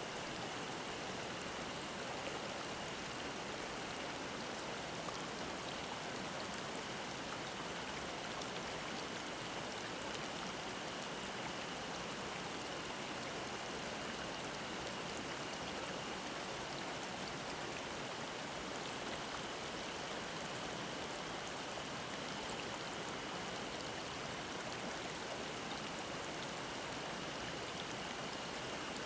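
Mountain stream babbling over rocks in a steady rush of water, with a cicada droning faintly and steadily on one high pitch.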